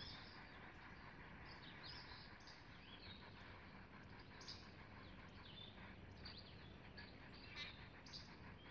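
Faint, high chirps of small songbirds, several short calls every second, over near-quiet outdoor air.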